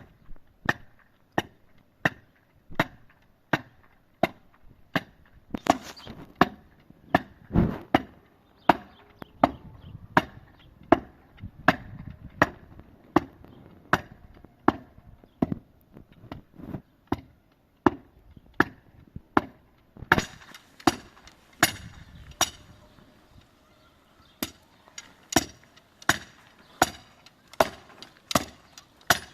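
A tool striking wood over and over in a steady rhythm, about one and a half blows a second. About two-thirds of the way through, a steady hiss joins in.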